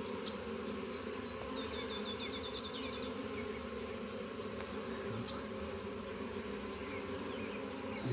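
Honeybees humming steadily around an open hive during a frame-by-frame inspection. A brief high-pitched trill of quick repeated notes comes about half a second to three seconds in.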